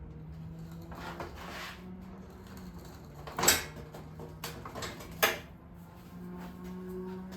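Tools and metal parts being handled: scattered clinks and knocks, with two sharp metallic clanks about three and a half and five seconds in, over a steady low hum.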